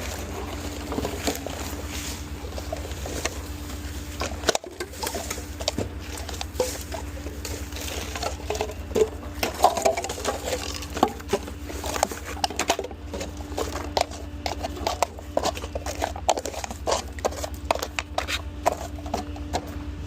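A garbage truck engine running steadily under a stream of irregular clicks, knocks and rustles from trash being handled.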